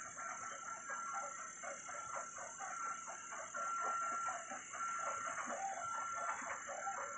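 Birds calling in a quick run of short notes, about four or five a second, over a steady high-pitched whine.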